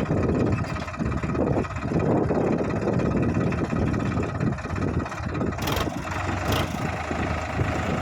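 Tractor diesel engine running steadily, with a couple of brief knocks about five and a half and six and a half seconds in.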